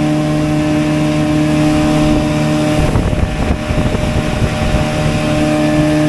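Outboard motor of a small boat running at a steady pitch while the boat is under way. About three seconds in, the engine tone is briefly masked by a rough low rumble and knocking for a second or so, then comes back.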